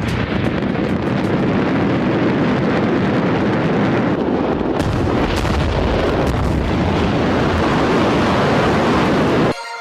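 Continuous heavy rumbling roar of a fireworks explosion, with scattered sharp bangs and crackles through it. It cuts off abruptly near the end, giving way to music.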